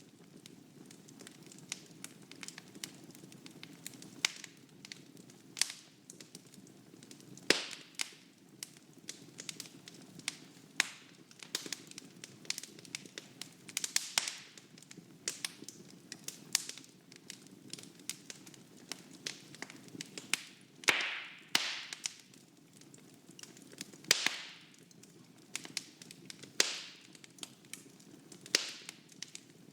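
Fire burning in a fireplace, crackling with irregular sharp pops over a steady low rumble of flames. A few pops stand out loud, a few seconds apart.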